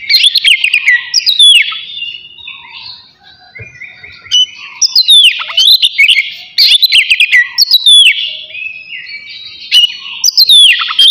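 Oriental magpie-robin (kacer) singing loud, fast phrases of sharp down-slurred whistles and chirps, with short pauses about 3 seconds in and again near 9 seconds.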